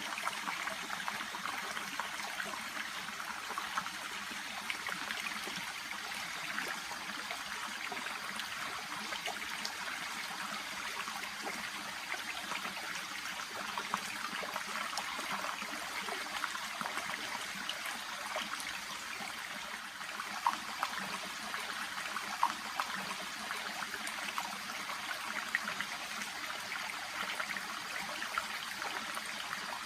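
Shallow brook babbling and trickling, a steady flow with small splashes and drips.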